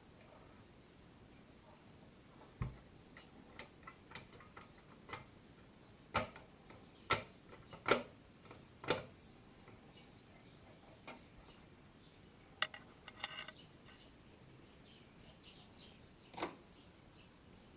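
Irregular clicks and knocks from small parts of an old car radio being handled, a dozen or so spread out, with a quick rattling run of clicks near the middle.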